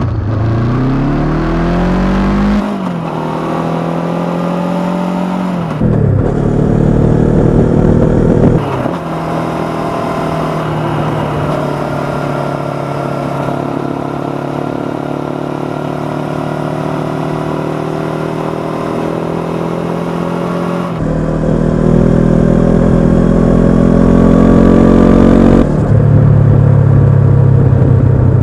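Honda CB500X parallel-twin engine through a Staintune exhaust, on the move: it rises in pitch through the first few seconds, breaks and changes pitch several times as it works through the gears, runs at a steady pitch through the middle, and changes pitch again in the last several seconds.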